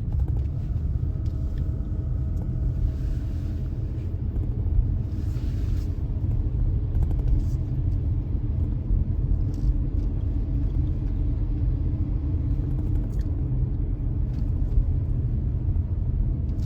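Steady low rumble of a car being driven, heard from inside the cabin: engine and tyre noise, with the hiss swelling briefly twice in the first six seconds.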